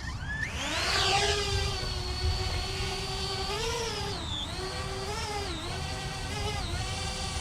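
Parrot Bebop 2 quadcopter's motors and propellers spinning up to a high whine within about the first second, then holding a steady hover whine whose pitch dips and swells several times as the motors adjust.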